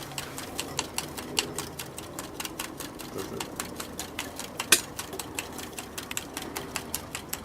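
Homemade soda-can Stirling engine with a bicycle-spoke crank and CD flywheel running, ticking in a fast, even rhythm of about five or six clicks a second, with one louder click a little past the middle.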